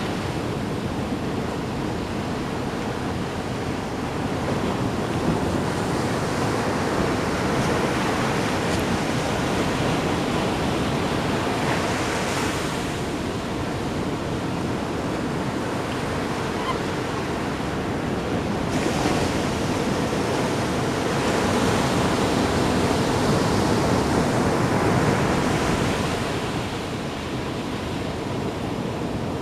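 Ocean waves breaking and washing in a continuous rush that swells and eases every several seconds, with wind buffeting the microphone.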